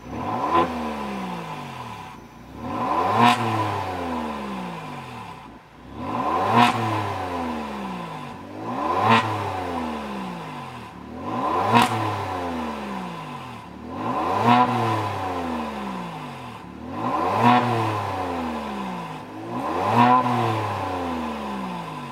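Kia Stinger 3.3T's twin-turbo V6 revved through an aftermarket variable-valve exhaust with dual-end mufflers, eight times. Each rev rises quickly to a peak and then falls back more slowly to idle, at about one every two and a half seconds.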